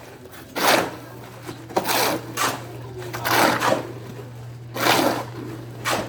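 Repeated scraping or rasping strokes, about one a second, over a steady low hum.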